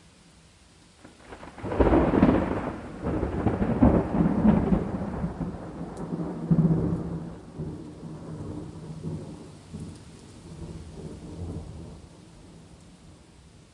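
A thunderclap breaks about two seconds in, cracking for a few seconds and then rolling away as a fading rumble over the next several seconds, over faint steady rain.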